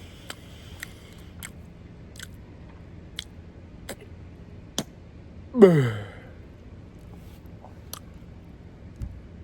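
Close-up chewing of rotisserie chicken: wet mouth clicks and smacks at irregular intervals. About five and a half seconds in, a short vocal sound slides down in pitch; it is the loudest thing here.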